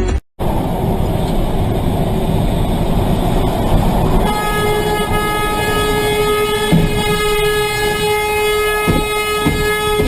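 Rumbling traffic or engine noise, then a vehicle horn sounds one long unbroken blast about four seconds in and holds at a steady pitch.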